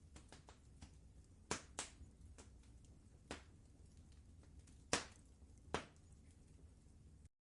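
Wood fire crackling faintly in a fireplace: a low steady rumble with a few sharp, scattered pops and snaps, the loudest about five seconds in.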